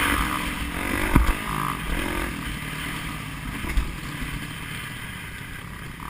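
A vehicle engine running, its pitch shifting up and down, with two sharp knocks, a little over a second in and near four seconds in.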